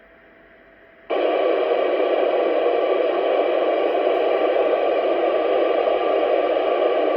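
Amateur radio transceiver's speaker putting out a steady rush of FM static. It starts suddenly about a second in and holds at a constant loud level.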